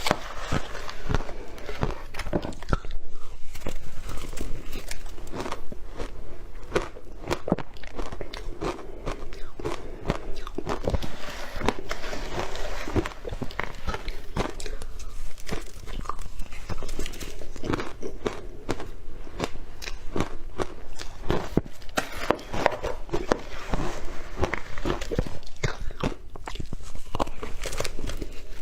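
Close-miked biting and chewing of crunchy milk powder: a dense, continuous run of sharp crunches and crackles.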